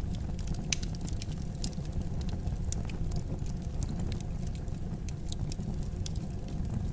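Fire burning in a fireplace: irregular sharp crackles and snaps over a steady low rumble.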